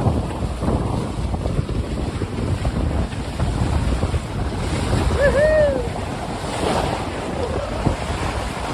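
Wind buffeting the microphone over the rush and splash of water along a sailing catamaran's hulls. A short call, two quick rising notes then a longer arched one, cuts through about five seconds in.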